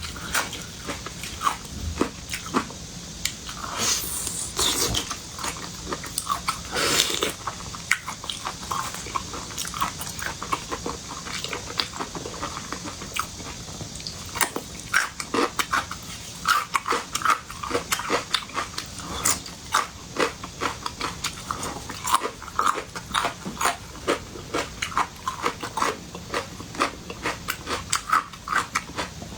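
Close-miked eating of seafood: wet chewing and mouth smacks with irregular quick clicks and crunches, and a couple of short slurps.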